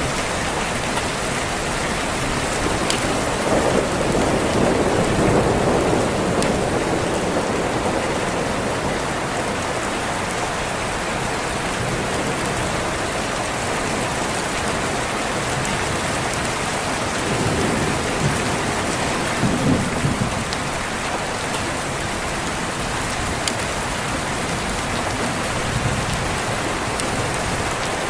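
Steady rain with thunder rolling in low and swelling twice, about three seconds in and again around seventeen to twenty seconds.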